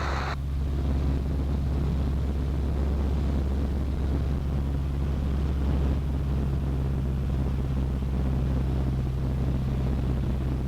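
Cessna 152's four-cylinder Lycoming piston engine and propeller droning steadily, heard inside the cockpit while flying the landing pattern. A brief hiss of radio static at the very start.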